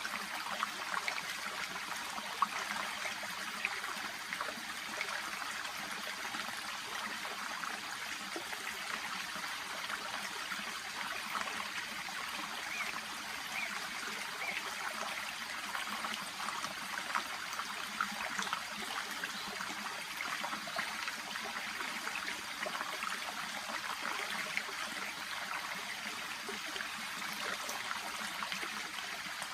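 Shallow brook babbling and trickling steadily, a constant flickering water sound with no pauses.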